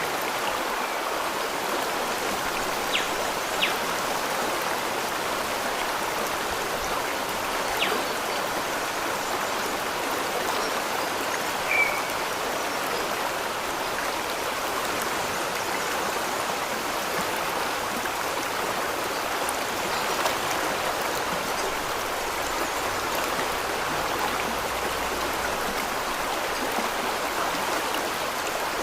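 Steady rush of flowing water, an even hiss without change, with a few faint clicks and one short chirp about midway.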